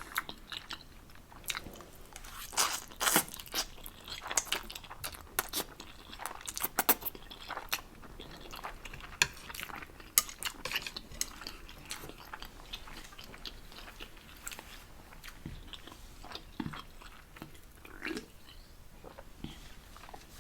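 Close-miked eating of Samyang 2X Spicy noodles: chewing and wet mouth clicks, busiest in the first half and thinning out later.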